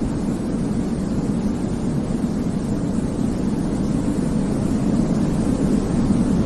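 Steady, low-pitched rumbling white noise of the kind played for baby sleep, even and unchanging with most of its weight in the bass.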